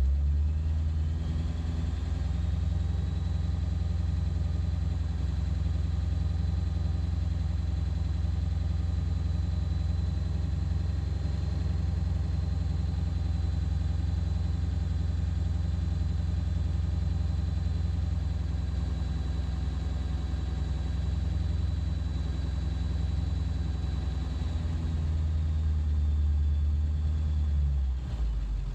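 Ford 7.3 Powerstroke turbo-diesel V8 running. It speeds up over the first couple of seconds, holds at a steady raised speed, then drops back near the end, with a high whistle rising and falling along with it. The engine is still running poorly after a new ICP sensor, and sounds rough to the owner in person.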